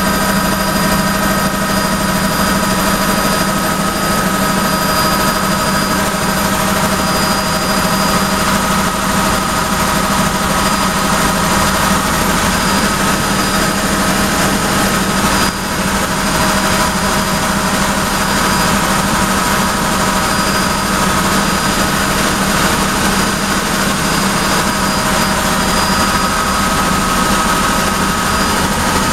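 Helicopter engine and rotor noise heard from inside the cabin in flight: a steady, loud drone with several constant whining tones above it, dipping briefly about halfway through.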